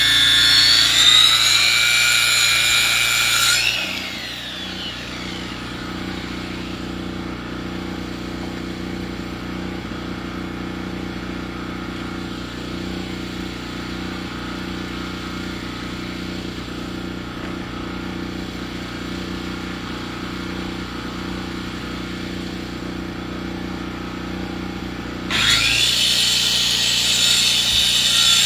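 Powered saw milling a log into lumber: it cuts through wood with a high whine for the first few seconds, drops to a quieter steady engine drone for about twenty seconds, then bites into the wood again near the end.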